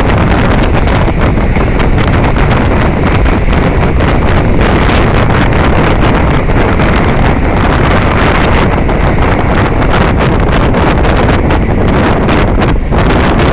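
Loud wind buffeting the microphone: a steady rumbling roar with frequent crackles and knocks throughout.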